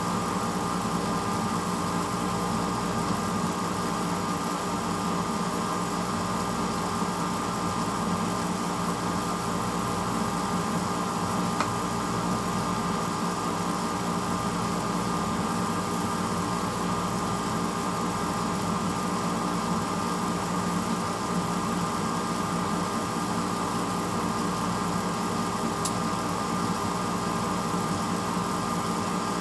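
1986 Hotpoint Potwasher dishwasher running steadily early in its cycle: a constant motor hum with an even rushing noise over it.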